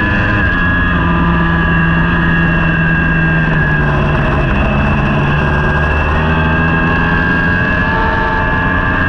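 Superbike racing motorcycle engine running hard at high revs, its pitch holding fairly steady with only slight dips and rises.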